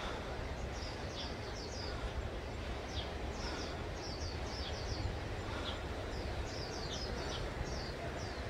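Small birds chirping in the trees: many short, quick high notes in loose clusters, over a steady low rumble.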